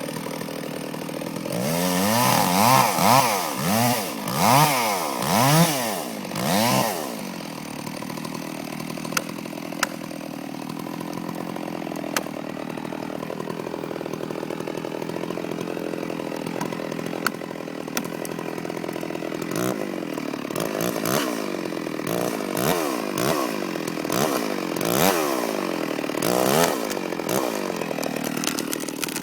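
Stihl 066 two-stroke chainsaw engine being revved up and down over and over, rising and falling in pitch. For about ten seconds in the middle it runs at a steadier, quieter note with a few sharp ticks, then the revving resumes.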